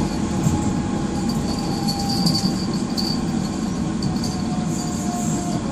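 Docklands Light Railway train heard from inside the carriage while running: a steady rumble from the wheels and running gear, with a faint motor whine that sinks slightly in pitch. A thin, high wheel squeal comes in about two to three seconds in and again near the end.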